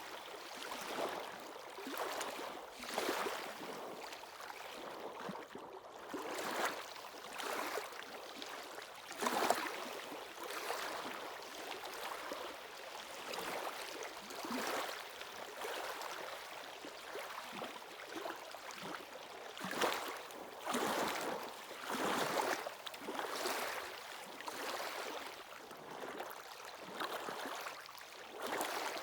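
Sea waves washing and splashing at the shoreline in irregular surges every second or two.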